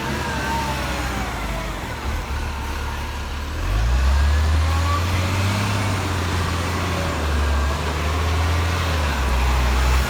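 Garbage truck's diesel engine running, climbing in revs and loudness a little under four seconds in, then holding steady.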